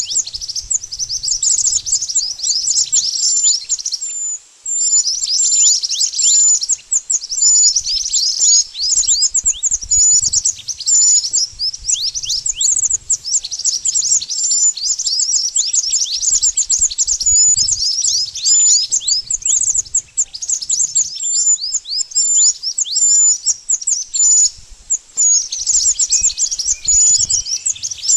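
Mantenan birds calling: a dense, continuous stream of rapid, thin, high chirps, each sweeping downward, mixed with short high piping notes. This is the call used as a lure for trapping.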